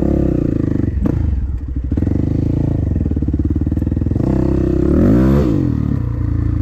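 Dirt bike engine idling, with a sharp click about a second in and one quick blip of the throttle about five seconds in, the pitch rising and falling back to idle.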